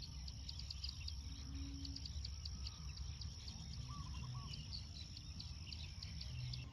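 Daytime countryside ambience: a steady high-pitched insect drone with many short bird chirps and a brief bird warble about four seconds in, over a low, even background rumble.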